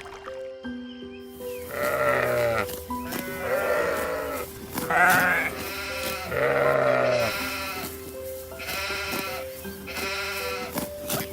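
An animal bleating about six times, each call bending and wavering in pitch, over background music with steady held notes.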